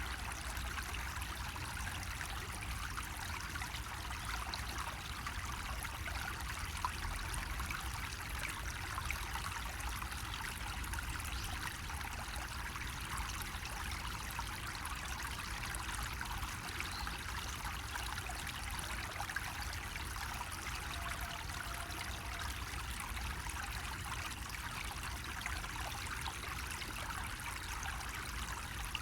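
Water trickling steadily from a bamboo faucet spout, an even splashing with a low rumble underneath.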